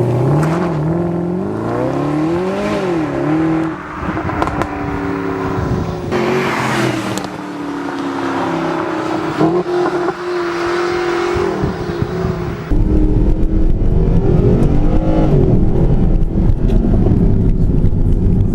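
Mercedes SLS AMG's 6.2-litre V8 exhaust, revved again and again so the note rises and falls, in a series of abruptly changing takes. From about 13 seconds in it becomes louder and deeper, with a dense rumble.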